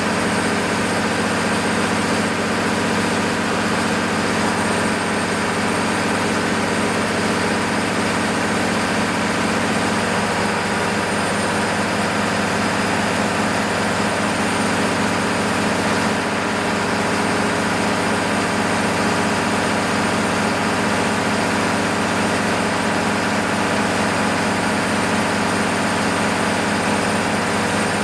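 Six-cylinder diesel engine of an MEP-006A military generator set running steadily at constant speed during a load test after a full overhaul, with a faint steady high whine over it.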